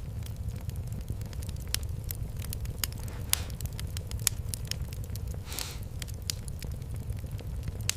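Fireplace fire crackling: scattered sharp pops and snaps over a steady low rumble, with a short hiss about five and a half seconds in.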